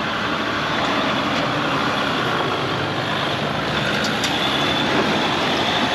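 Off-road truck engine running steadily, mixed with a constant rushing noise.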